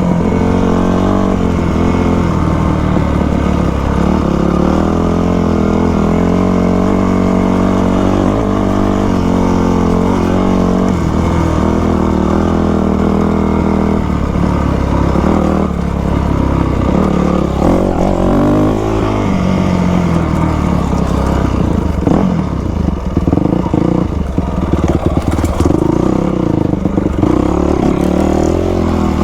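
2000 Yamaha YZ250 two-stroke dirt bike engine under way, revving up and falling back again and again as it is ridden, getting choppier and more uneven in the last third.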